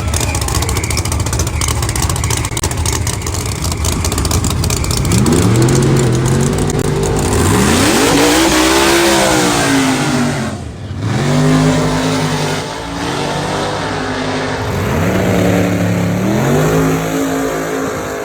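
A drag-racing street car's engine: a rapid crackle at first, then the car launches and accelerates hard down the strip. The engine pitch climbs and drops back several times as it shifts gears.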